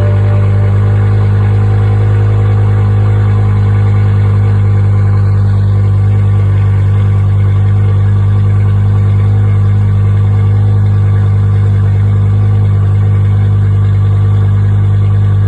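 BMW M6 E64's 5.0-litre S85 V10 idling steadily just after start-up, a deep even note that holds the same pitch.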